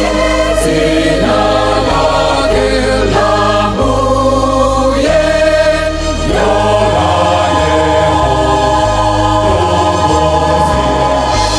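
Gospel choir music: several voices singing together over a steady bass line.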